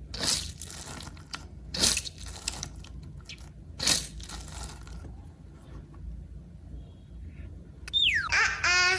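Slime being squeezed and pressed, with three loud crunchy squelches in the first four seconds and small crackles between them. Near the end a cartoon sound effect comes in: a falling whistle followed by a warbling, wobbly tone.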